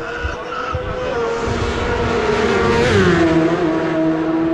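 Superbike racing motorcycle passing at high speed, its engine getting louder as it approaches, then dropping sharply in pitch as it goes by about three seconds in and running on at a steady lower note as it pulls away.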